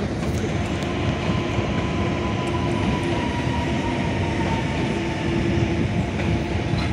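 Electric multiple-unit passenger train running past on the rails: a steady rumble of wheels on track with a faint steady whine over it.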